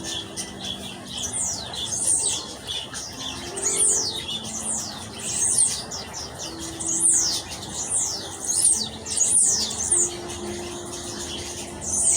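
Aviary birds calling: shrill, high chirps that sweep sharply downward in pitch, repeated every second or two, with faint low held notes underneath.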